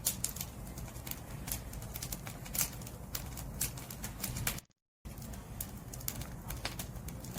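Wood fire burning: firewood crackling with irregular sharp pops and snaps over a steady low rumble of the flames. The sound cuts out completely for about a third of a second just under two-thirds through, then resumes.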